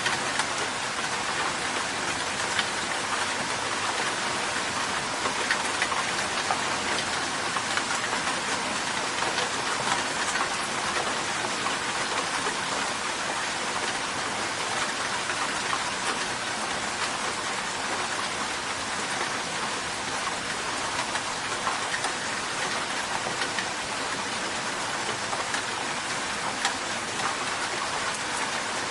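Steady rain falling, an even hiss of rain with the small ticks of single drops standing out, unchanging throughout.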